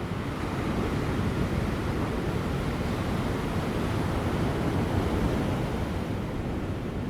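Large ocean waves breaking on rocks just before high tide: a continuous rushing surf that swells a little through the middle and eases slightly near the end, with light wind.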